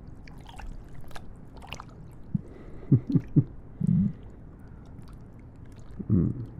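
Human stomach gurgling: a few short, low gurgles and squelches between about two and three and a half seconds in, then fuller low rumbles around four seconds and again near the end, over a steady hiss of rain ambience.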